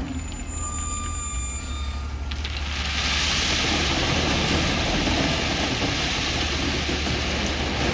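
Diesel engine of heavy earthmoving machinery running steadily with a low hum. About two and a half seconds in, a hissing rush of noise starts over it and keeps going.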